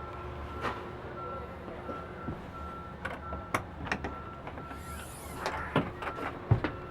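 Clicks and knocks from the lower bunk of a Volvo 670 sleeper being worked on its struts and hinges, ending in a loud thump about six and a half seconds in. A steady low rumble and a faint beep repeating about twice a second run underneath.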